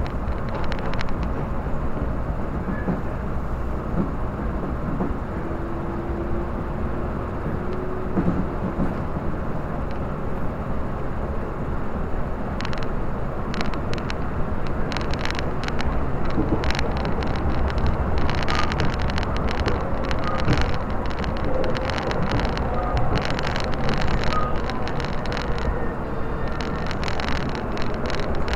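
Tobu commuter train running, heard from inside the carriage: a steady rumble of wheels on rails, with many quick clicks and clacks from the track from about halfway through.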